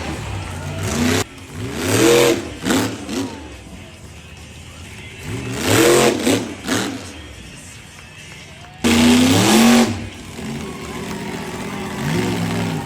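Monster truck engine revving hard in repeated bursts, the pitch climbing and dropping with each rev. Between the revs the engine runs lower and steadier, and a loud rev starts suddenly about nine seconds in.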